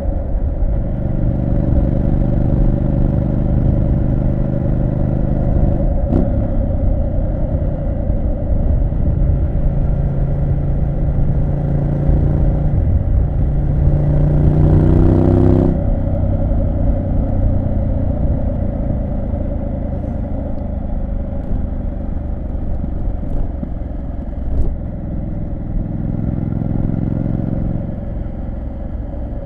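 Triumph Street Scrambler 900's parallel-twin engine running under way on the road. The engine note climbs in pitch for a few seconds around the middle, then drops off suddenly as the throttle is closed, and settles into a lower, steadier note that eases off near the end.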